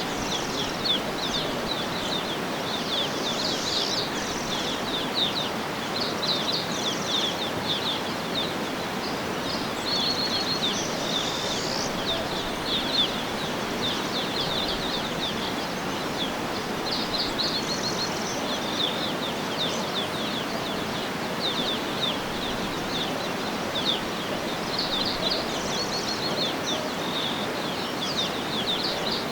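Outdoor nature ambience: a steady, even rushing noise with many birds chirping and trilling over it throughout.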